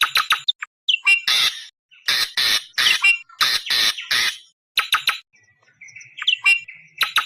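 Awar-awar bird lure call: runs of loud, harsh screeching squawks in quick clusters of several a second, broken by short pauses, with a few brief whistled notes between them.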